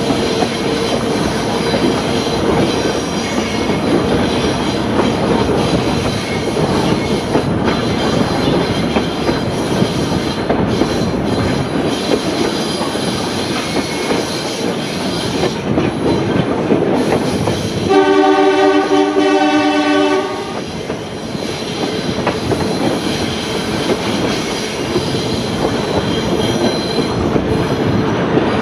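Heard from inside a passenger carriage of a train hauled by an Alco 930 class diesel locomotive: steady wheel-on-rail running noise. About 18 seconds in, the locomotive's horn sounds once for about two and a half seconds and is the loudest thing heard.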